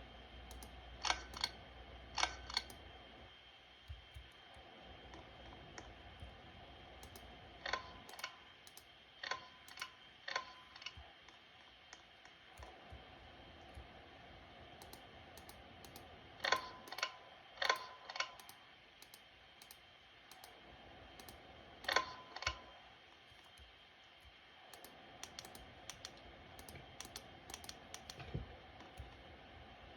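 Ceiling fan pull-chain switch clicking, mostly in pairs with a short ring after each click, over the faint steady hum of a running fan.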